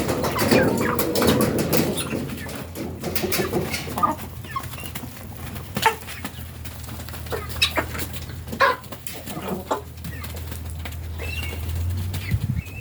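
Free-range chickens and guinea fowl clucking and calling at feeding time, a busy jumble of calls at first thinning to scattered single calls later on.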